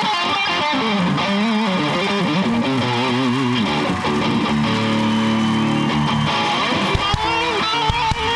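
Electric guitar being played: wavering, bent notes for the first few seconds, then a held strummed chord, with a few sharp clicks near the end.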